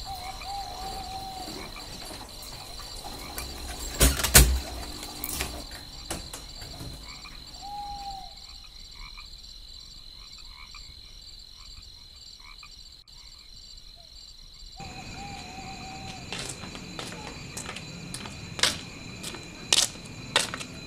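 Night ambience: insects chirring steadily, with a few short frog-like calls. A single loud knock comes about four seconds in, and a series of sharp clicks near the end.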